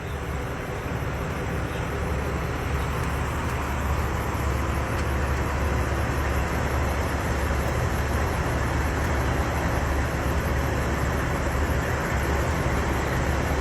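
Semi truck's diesel engine idling steadily, a constant low hum under a broad even rumble.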